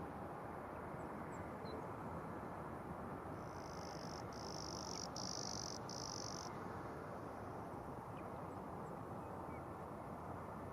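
Faint steady background hiss, with a high, thin insect trill from about three and a half to six and a half seconds in, broken by three brief gaps.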